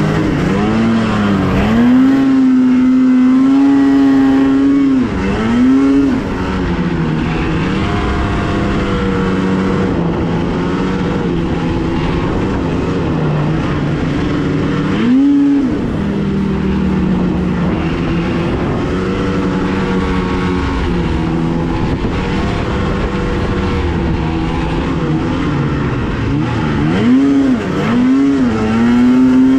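Two-stroke snowmobile engine running hard at high revs, its pitch dropping and quickly climbing back a few times, about five seconds in, midway and near the end, as the throttle is eased and reapplied.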